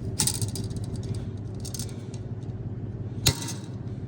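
Small metal clicks and rattles of pull-start recoil starter parts being handled and fitted by hand, with a sharp click a little after three seconds in. A steady low hum runs underneath.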